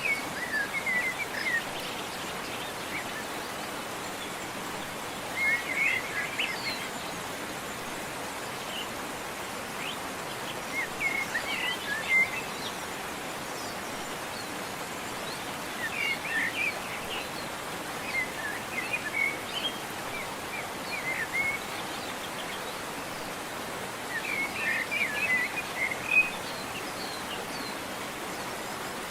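Steady rush of a waterfall, with a songbird's short chirping phrases breaking in every few seconds.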